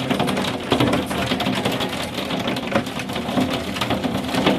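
Hailstones striking a hard surface: a dense, rapid, irregular clatter of clicks over a steady low rumble.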